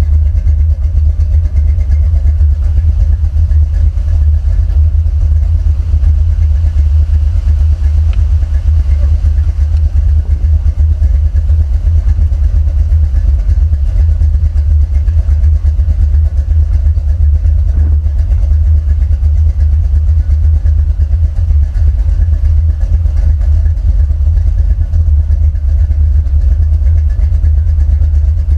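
Buick 455 Stage-1 V8 with a TA290-08H camshaft running steadily, a loud, deep low rumble with no revving.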